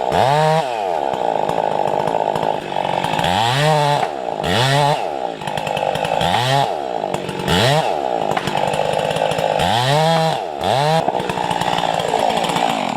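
Chainsaw running hard in a cut, its engine pitch sagging and recovering again and again as the chain loads up in the wood. It stops near the end.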